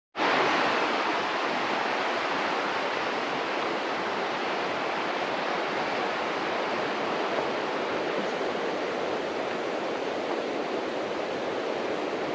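Rushing river water, a steady full hiss of current that cuts in suddenly at the start and holds level.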